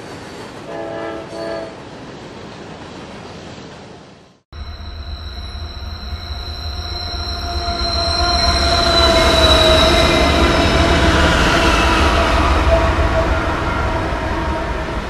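Two short train horn blasts about a second in. Then, after a brief dropout, a Norfolk Southern train passes close with a loud low rumble and steady high tones that bend slightly down in pitch, growing louder toward the middle.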